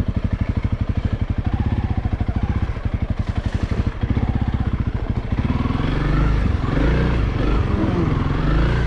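Honda CRF300L single-cylinder engine idling with an even, fast pulse, then about five seconds in the throttle opens and the engine pulls harder, louder with an uneven, changing note as the bike moves off.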